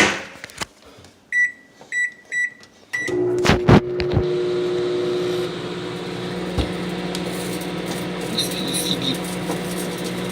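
A microwave oven's door shut with a sharp clack, then four short keypad beeps, and the oven starts up a few seconds in with a couple of clicks and runs with a steady hum, a CD inside it.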